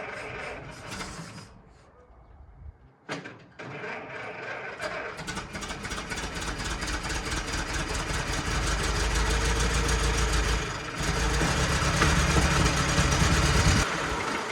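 Ford Model T's four-cylinder engine: after a short quiet spell and a click about three seconds in, the engine runs and grows steadily louder, with a deep low rumble in the second half that cuts off sharply near the end.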